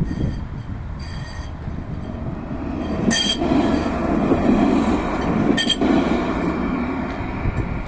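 Tram running on its rails, a steady low rumble with a motor hum that swells through the middle, broken by several brief high-pitched squeals, the strongest two about three seconds and five and a half seconds in.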